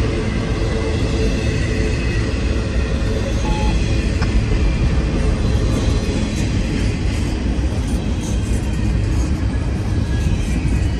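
Intermodal freight cars of a CN train rolling past at track side: a steady, heavy rumble of wheels on rail, with light clicks and faint squealing tones above it.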